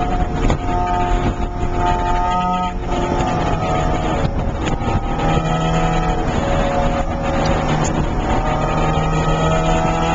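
Porsche 968's 3.0-litre four-cylinder engine, heard from inside the cabin under hard track driving. Its pitch rises and falls as the car accelerates and slows, with breaks about two and a half and four and a half seconds in, and climbs steadily near the end, over road and wind noise.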